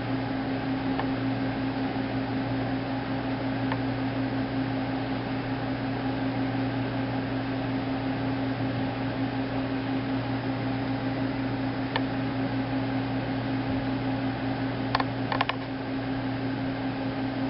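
Steady machine hum and fan noise, with two constant low tones. A few faint clicks come near the end.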